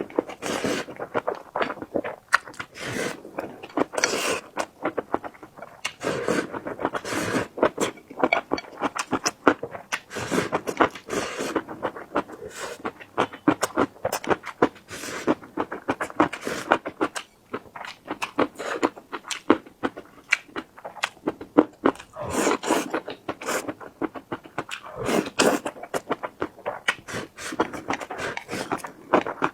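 Close-miked chewing and eating: a continuous stream of wet mouth clicks and smacks as food is chewed.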